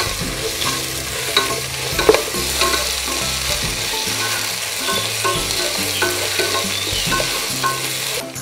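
Chopped vegetables sizzling in ghee and coconut oil in a non-stick pan, stirred with a wooden spatula that scrapes and knocks against the pan many times. The sizzle breaks off sharply near the end.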